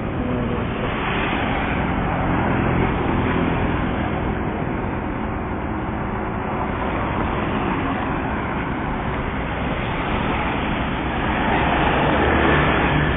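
Vehicle running along a road, with steady engine and road noise that grows a little louder near the end.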